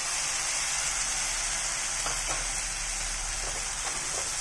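Freshly added tomato puree sizzling in hot oil over golden-fried onions in a non-stick pan, stirred in with a wooden spoon; a steady sizzle with a few light knocks of the spoon about halfway through.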